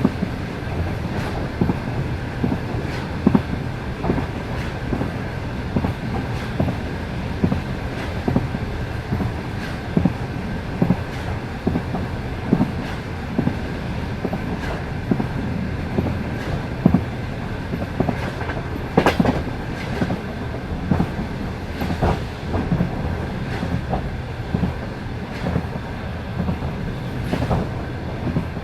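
Passenger train carriage running at speed, its wheels clacking over the rail joints in a steady repeating rhythm over a low rumble, with one sharper knock about two-thirds of the way through.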